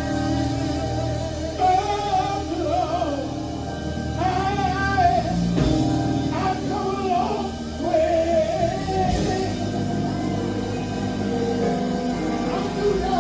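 Vocalists singing a gospel song over a backing band with bass and guitar; the voices enter about a second and a half in.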